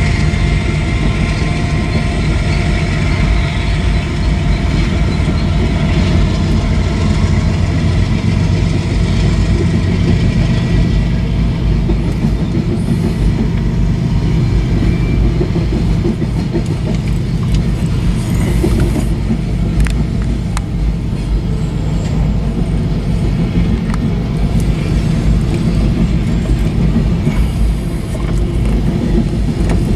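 Freight cars of a manifest train rolling past: a steady rumble of steel wheels on the rails, with scattered clicks as the wheels cross the rail joints.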